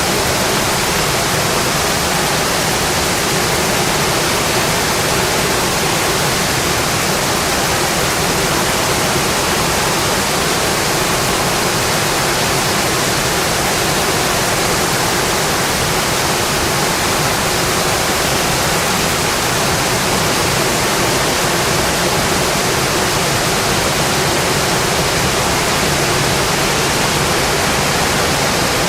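Steady, heavy rain on a metal roof, an even unbroken hiss.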